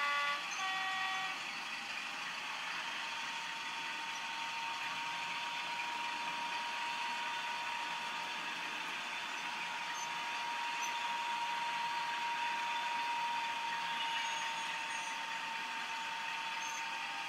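OO gauge model diesel locomotive with a DCC sound decoder: a short two-tone horn sounds right at the start, then the recorded diesel engine sound runs steadily through the model's small speaker, with a steady whine underneath.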